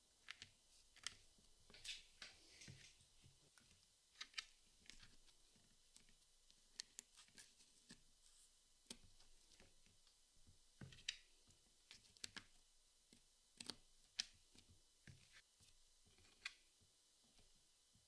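Puzzle pieces being handled: scattered, irregular light clicks and taps with soft rustling between them.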